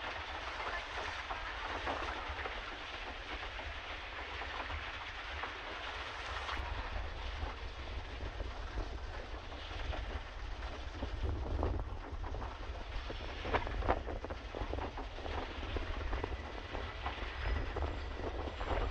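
Pedal boat's paddle wheel churning the canal water: a steady splashing haze full of small irregular clicks and splashes, busier in the second half, over a low rumble of wind on the microphone.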